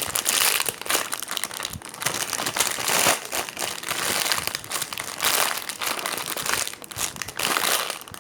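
Crinkling and crackling in repeated bursts from a jumbo ice-cream squishy with a cracked skin being squeezed and handled.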